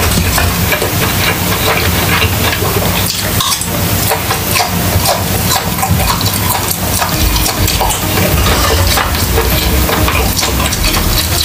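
Close-miked chewing of pork steak: wet, crackly mouth sounds that run on without a break, with small clicks of a fork on the grill.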